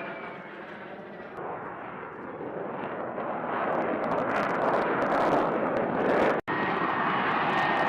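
Roar of an F-35B Lightning II's Pratt & Whitney F135 jet engine as the aircraft hovers. A loud rushing noise builds over the first few seconds and then holds steady, broken by a brief dropout about six and a half seconds in.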